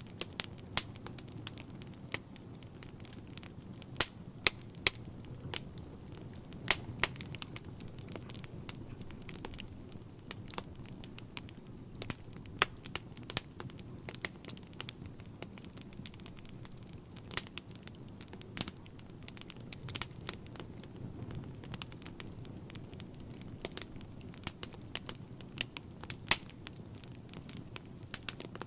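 Wood fire burning in a fireplace: irregular crackles and sharp pops over a low steady rush of flame.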